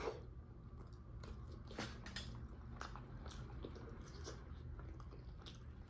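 Close-up eating sounds: wet chewing and lip smacks of a mouthful of naan dipped in saagwala curry, with scattered soft clicks and squishes.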